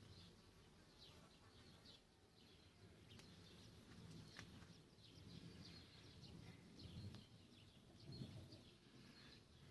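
Faint outdoor ambience: small birds chirping on and off in the distance over a low, uneven rumble.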